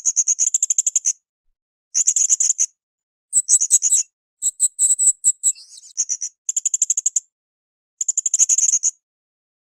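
Blue-crowned hanging parrot (srindit) calling in short, rapid trains of high, thin notes, about ten a second. The bursts last under a second each and are separated by silent gaps. Midway the notes turn higher and more clipped.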